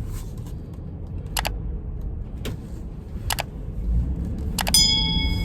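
Delivery van driving, a steady low road and engine rumble that grows louder near the end, with a few sharp clicks. Near the end comes a click and then a short, steady electronic chime lasting about a second.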